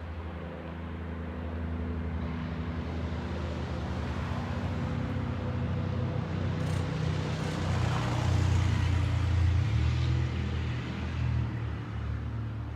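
A motor vehicle's engine running steadily with a low hum, growing louder toward the middle and easing off a little near the end.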